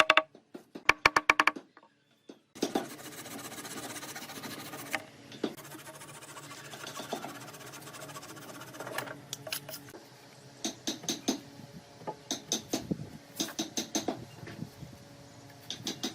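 Scattered sharp knocks and taps over a steady hiss, the taps coming in quick groups in the second half.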